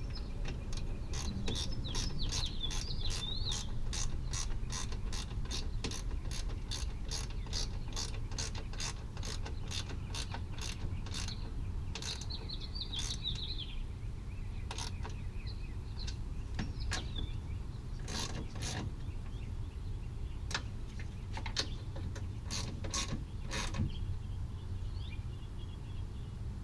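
Hand ratchet wrench clicking as bolts are turned, in a steady run of about three clicks a second, thinning after about twelve seconds to scattered short groups of clicks.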